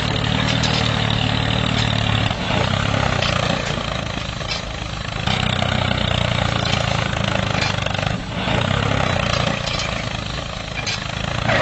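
Small engine of a home-built mini tractor running steadily, with brief dips in its hum about two, four and eight seconds in.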